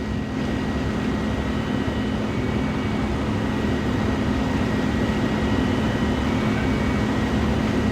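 Heavy diesel engine of a concrete pump truck running steadily at constant speed during pumping, a continuous low hum with a faint steady high whine.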